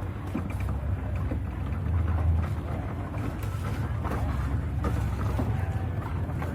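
A car engine running close by: a steady low rumble that swells briefly about two seconds in.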